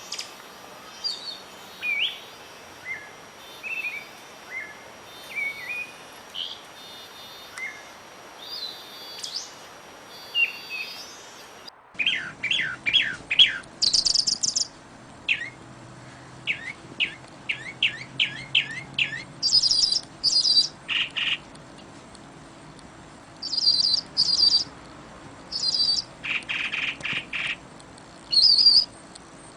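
Several wild birds chirping and calling over a faint background hiss: short sliding chirps at first, then after an abrupt change about twelve seconds in, louder and sharper chirps, quick repeated call series and high trills.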